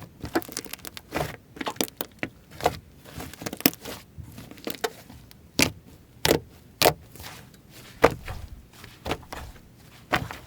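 Slime being squeezed and worked by hand, giving irregular sharp pops and clicks, several a few seconds apart and the loudest ones in the middle.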